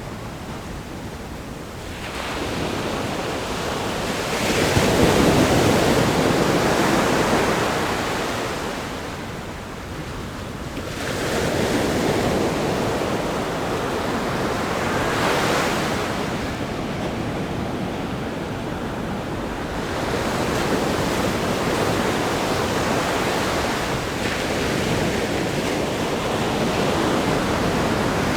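Ocean surf breaking on a rock groin and washing over sand: a continuous wash of waves that swells loudest about five seconds in and again around twelve and fifteen seconds, then settles into a steady rush.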